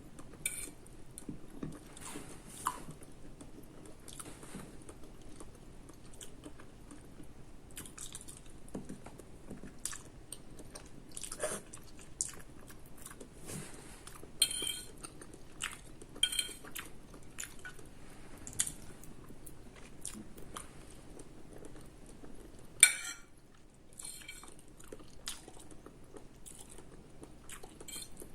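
Close-up chewing and biting of food: irregular crunchy bites of raw cucumber and soft wet chewing of spaghetti. One sharp, louder click late on, like cutlery against a plate.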